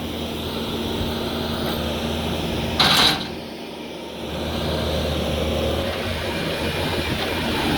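An engine running steadily, with a short, loud rush of noise about three seconds in.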